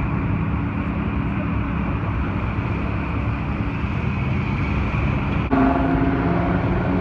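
Loud sports-car engine noise, rough and continuous. About five and a half seconds in, the sound cuts abruptly to a clearer, higher engine note that climbs a little and then holds.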